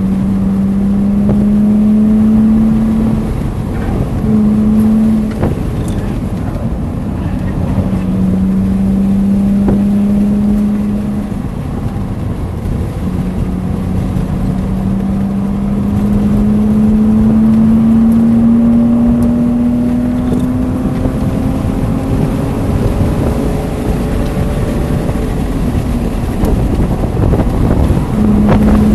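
BMW Z3 engine running hard at track speed, heard from inside the car over steady wind and road noise. Its note comes and goes several times as the throttle is lifted and reapplied through the corners, with one long, slow rise in pitch in the middle as the car pulls onto a straight.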